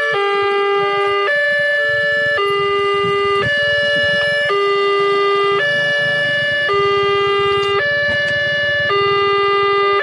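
Electronic warning alarm of a railway level crossing, sounding two alternating tones that switch about once a second, with a low rumble underneath.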